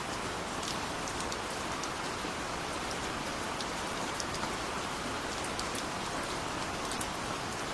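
Steady gentle rain falling, an even hiss with the scattered ticks of individual raindrops striking a surface.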